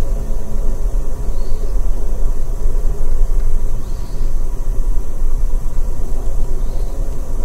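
Steady low rumble of the Amtrak Auto Train running at speed, heard from inside a passenger car.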